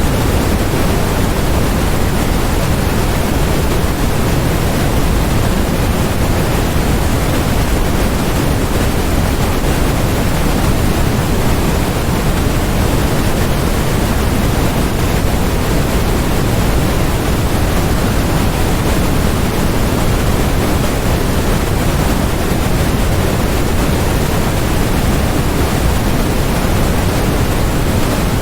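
Steady synthetic noise of the white-noise kind: an unchanging, even hiss, fuller in the low end than in the highs.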